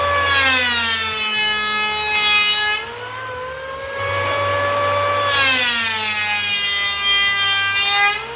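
High-speed electric woodworking power tool running with a steady whine; its pitch sags and the sound grows louder as it bites into the wood, eases back up around three seconds in, then drops again as it cuts a second pass.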